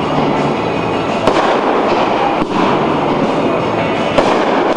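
Fireworks going off in a dense, continuous crackle, with a couple of sharper cracks about a second in and near the end.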